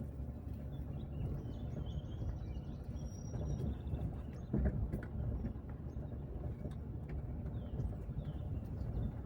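A car driving along a forest road: steady low rumble of tyres and running gear with scattered knocks and a louder bump about halfway through. Birds chirp faintly between about two and five seconds in.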